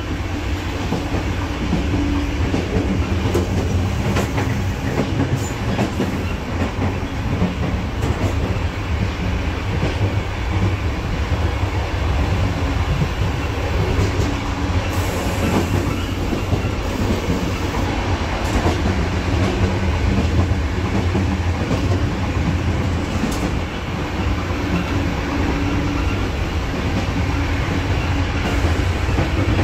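Passenger train running at speed, heard from the vestibule between carriages: a steady low rumble of wheels on track with scattered clicks and rattles.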